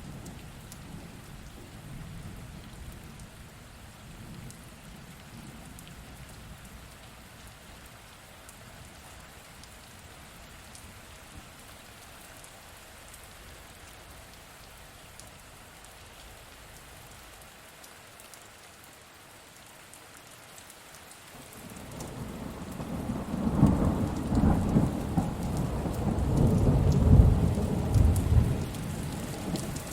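Steady rain falling with a faint low rumble of distant thunder. About two-thirds of the way through, a loud rolling thunderclap builds up and rumbles on.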